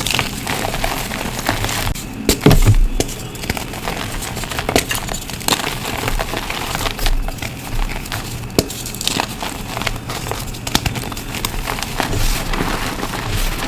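Reformed blocks of gym chalk being crushed: dense, irregular crunching and crackling with many sharp little cracks, one stronger crunch about two and a half seconds in.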